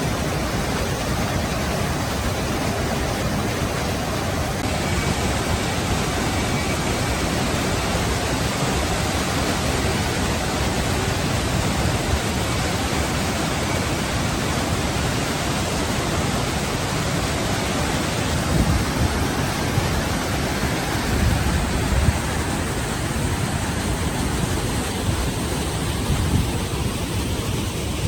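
Waterfall: a steady rush of falling water, its tone shifting slightly about five seconds in.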